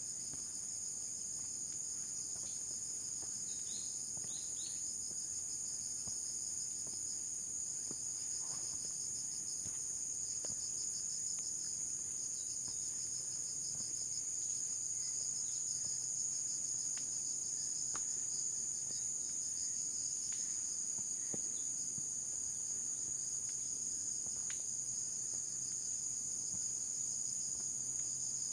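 Continuous high-pitched chorus of insects, steady and shrill with a fast pulsing edge, with a few faint scattered ticks beneath it.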